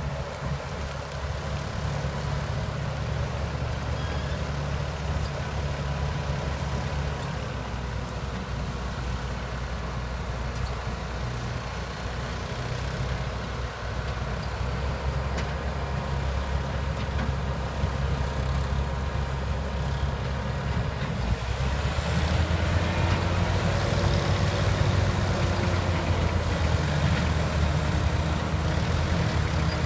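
Heavy diesel engine of a Case 7000 sugarcane harvester running steadily. It grows louder and changes pitch about twenty seconds in.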